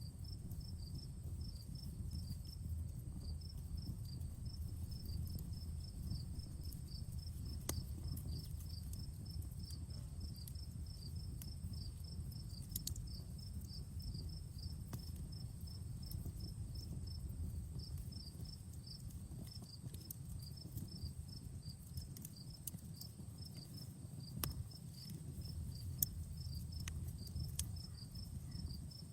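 Campfire burning, with a low steady rumble and sparse sharp crackles and pops, one louder pop about 26 seconds in. Insects chirp steadily in a fast, even pulse of high notes over the fire.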